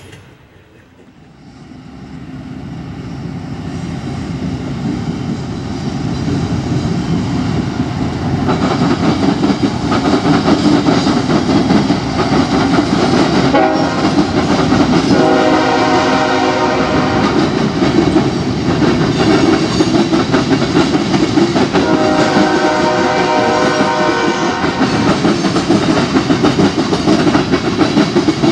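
A CSX diesel freight train approaches and passes, its locomotive engine growing louder. The horn sounds two long blasts, the first about halfway through and the second a few seconds later, while the freight cars roll by on their wheels.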